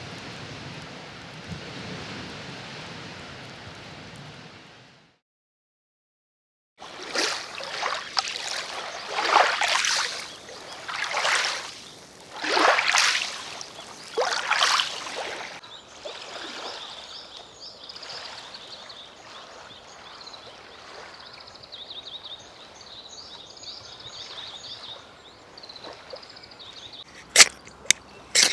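Water washing ashore at a lake's edge: a run of rushing swells a second or two apart, after a stretch of steady rushing noise that fades out and breaks off. Faint high chirping follows.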